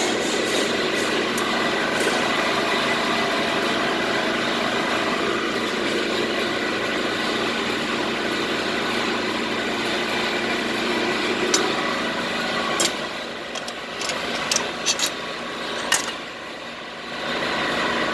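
A machine running steadily, with a few sharp clicks starting about two-thirds of the way in and a short dip in level near the end.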